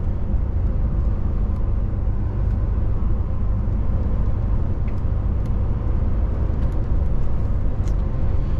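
Steady cab noise of a DAF truck cruising on the highway: a low engine and road rumble with a faint engine tone, and a few light clicks.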